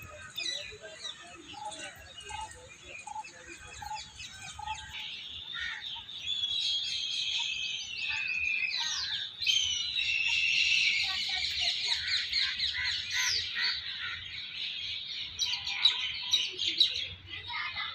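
Birds chirping and twittering, many short calls overlapping. The chorus grows denser and louder about five seconds in, then thins toward the end.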